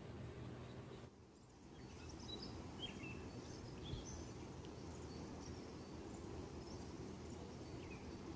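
Small birds chirping faintly, short scattered calls from about two seconds in, over a steady low outdoor background rumble that briefly drops away about a second in.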